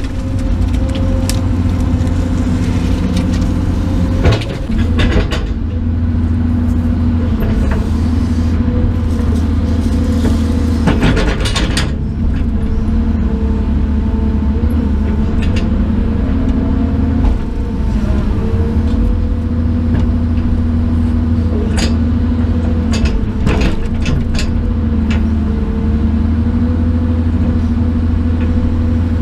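An engine running steadily, its pitch shifting slightly now and then, with several sharp cracks over it.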